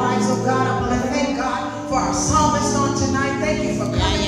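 Church worship music: voices singing over steady held notes.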